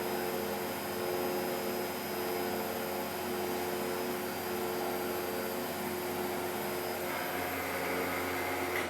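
A workshop machine running steadily with a constant whine and a hiss, cutting off suddenly at the end.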